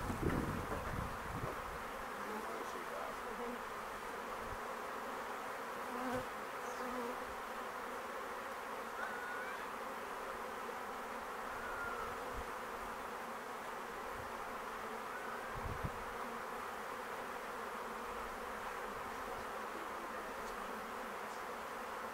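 A swarm of honey bees buzzing all together in a steady, even drone.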